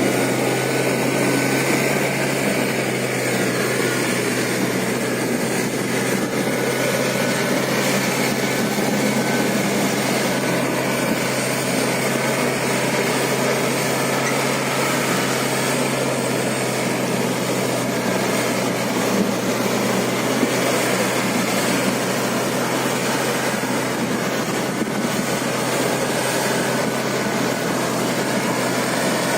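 Toyota Land Cruiser engine running steadily as the vehicle drives off-road, with a constant low drone.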